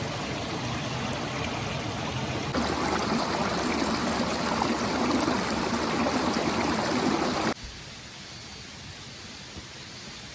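Mountain stream water running, louder from about two and a half seconds in, then cutting off suddenly about seven and a half seconds in to a much quieter steady hiss.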